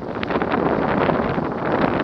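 Wind buffeting the microphone: a steady rushing noise dotted with many small crackles.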